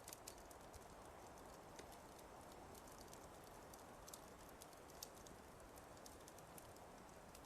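Fire crackling in a fireplace: irregular sharp pops and snaps, a few a second, over a soft steady hiss.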